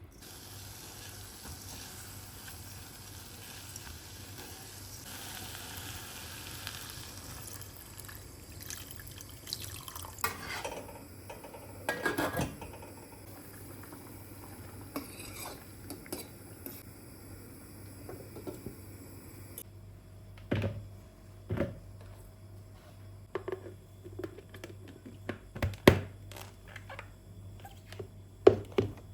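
Kitchen work sounds: water running from a tap for the first several seconds, then scattered knocks and clatter of dishes and utensils.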